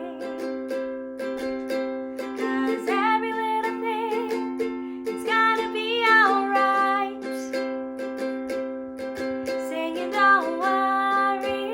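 Ukulele strummed in a steady rhythm, with a voice holding a few wordless, wavering notes over the chords.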